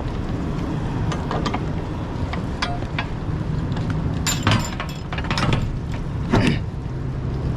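A vehicle engine idling as a steady low hum, with a few sharp metallic clanks and rattles about halfway through.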